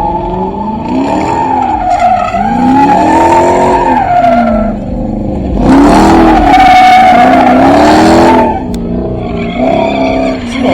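A car spinning donuts: the tyres screech steadily while the engine revs rise and fall over and over. It is loudest from about six to eight seconds in.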